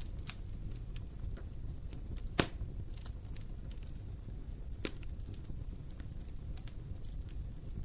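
Wood fire crackling in a fireplace: a steady low rumble of the flames under many small ticks, with a sharp pop about two and a half seconds in and a smaller one about five seconds in.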